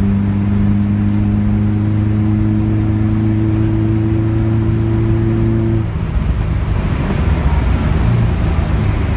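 Nissan SR20DE four-cylinder engine pulling at steady, slowly climbing revs. About six seconds in, the engine note drops away abruptly as the throttle is lifted, leaving a rough low rumble.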